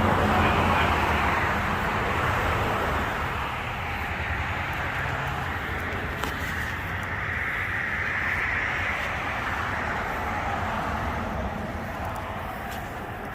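Steady hiss of water spray washing down a truck, shifting in pitch as the spray moves over the body, over a low steady motor hum.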